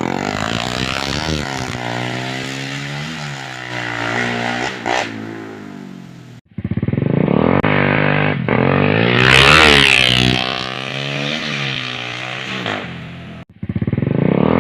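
Yamaha Jupiter MX's single-cylinder four-stroke engine, fitted with a PE28 carburettor and an aftermarket exhaust, revving up and down in repeated blips. The sound cuts out abruptly twice.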